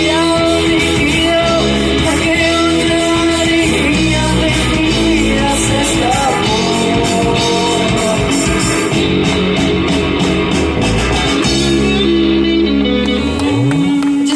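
Rock music with singing and guitar, with a rising slide in the low notes near the end.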